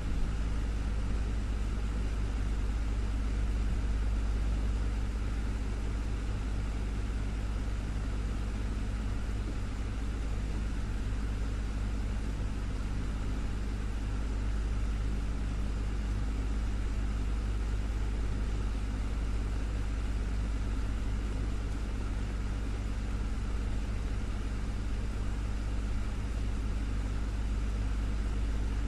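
Desktop fan running steadily: a constant low hum with the even rush of moving air.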